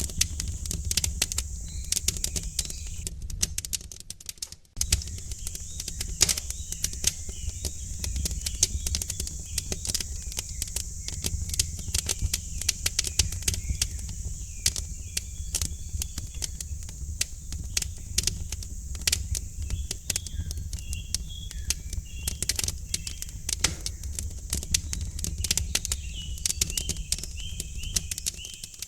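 Wood fire crackling in a fireplace: a dense, irregular run of pops and snaps over a low rumble, with faint bird chirps in the background. The sound drops out briefly about four and a half seconds in.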